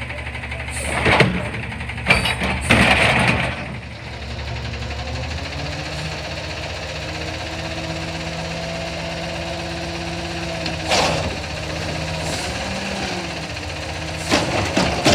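CNG front-loader garbage truck engine running steadily, with a higher whine joining from about seven to ten seconds in. Several loud short noises break in about a second in, from two to three and a half seconds, around eleven seconds and near the end.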